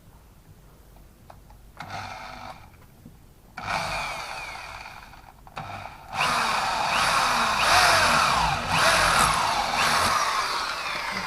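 Electric drill boring into stainless steel, the exhaust-clamp band: a short burst about two seconds in, another near four seconds, then a long run from about six seconds on, its pitch sliding as the bit bites into the metal.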